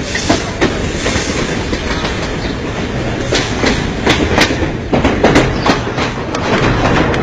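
Mumbai suburban electric local train running, its wheels clattering irregularly over the rail joints, heard close up from the coach's open doorway.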